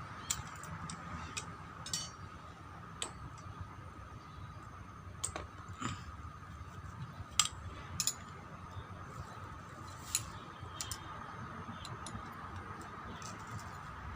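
Scattered light clicks and metal clinks of hand tools and small parts being handled during a brush-cutter teardown, about a dozen at uneven intervals. The sharpest comes a little after seven seconds in. Under them runs a faint steady high hum.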